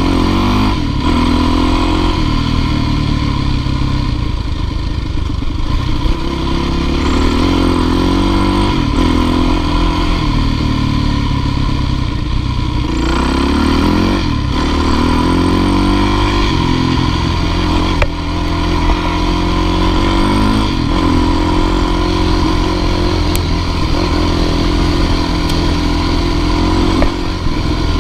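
Dirt bike engine running hard under load, its pitch rising and falling repeatedly as the throttle is worked on a climb.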